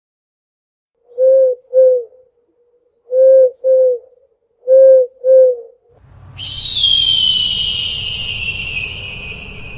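An owl hooting: three pairs of short, low hoots. From about six seconds in, a different animal gives a long, high, whistle-like call that slides slowly down in pitch over a low rumble.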